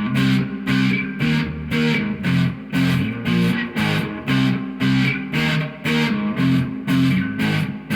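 Electric guitar played through an amplifier, a repeating rhythmic riff of strummed chords at about three strokes a second.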